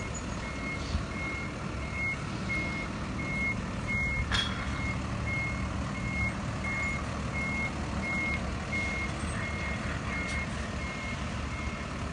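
A truck's reversing alarm beeping steadily, about three beeps every two seconds, over the low rumble of an engine running. There is one sharp knock about four seconds in.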